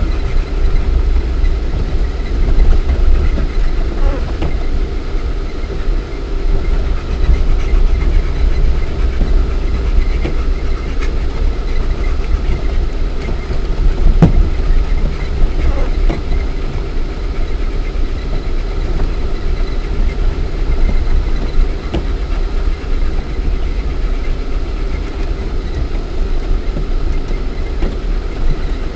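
Lada Niva 1.7i four-cylinder petrol engine and drivetrain heard from inside the cabin while driving off-road: a steady, loud low rumble with a constant hum, broken by a few short knocks.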